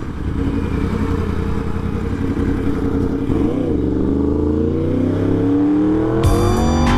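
Motorcycle engine running, then accelerating with its pitch climbing steadily from about four seconds in. Near the end, a new sound with high steady tones cuts in abruptly.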